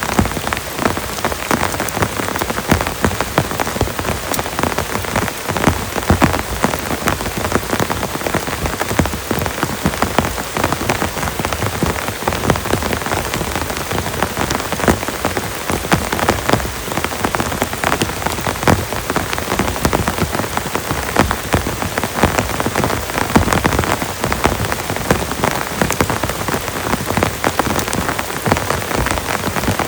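Heavy rain falling steadily, with a dense stream of individual drops striking a surface close by.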